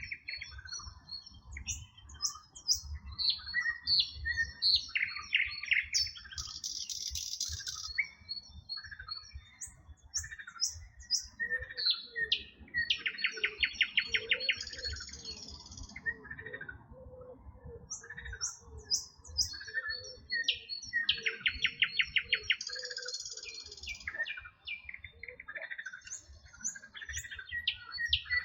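Several songbirds singing and chirping together, with short whistled notes, high buzzy phrases and two fast rattling trills, one about halfway through and one about three quarters through.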